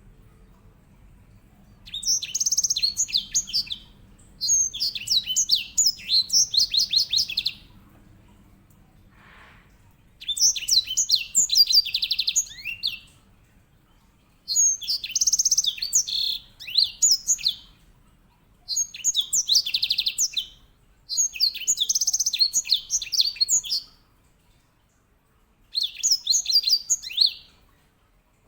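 A grey singing finch (white-rumped seedeater, Serinus leucopygius) singing seven loud phrases of a few seconds each with short pauses between them. The phrases are built of fast, high rolling trills, the bird's typical rolling song.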